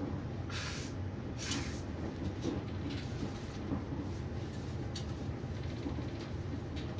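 Steady low rumble and running noise of an ÖBB Railjet passenger train at speed, heard from inside a carriage, with two short hissing noises about half a second and a second and a half in and a few faint clicks.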